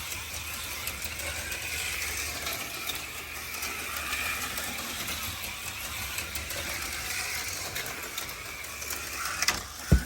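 HO slot cars running laps on a plastic track: small electric motors whining and rising and falling with speed, with the light clicking and rattling of the cars in the slots. A sharp knock near the end.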